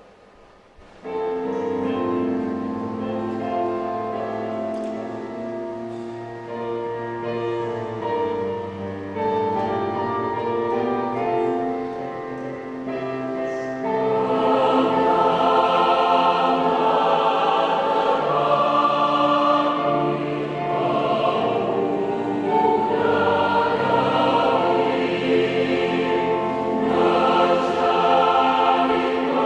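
A large choir singing a hymn in parts, with many voices holding sustained chords. It comes in about a second in and swells louder about halfway through.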